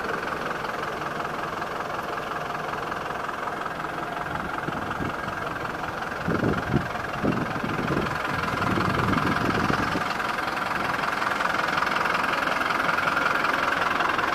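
Toyota Dyna truck engine running at idle, steady, with a few short louder bursts about halfway through, after which it runs a little louder.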